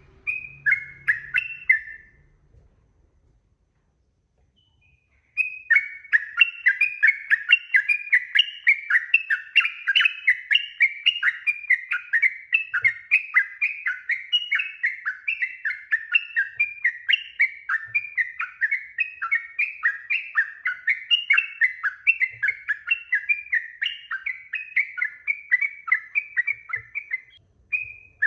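Yellow-vented bulbul (trucuk) singing a long, fast run of short, bubbly slurred notes, a few each second. A brief phrase comes first, then a pause of a few seconds, before the long unbroken run.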